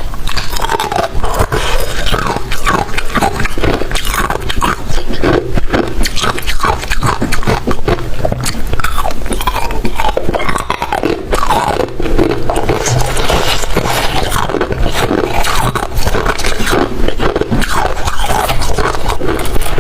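Close-up biting and chewing of crunchy freezer frost ice: a loud, continuous stream of crunches and crackles with brief squeaky sounds as the frost is compressed.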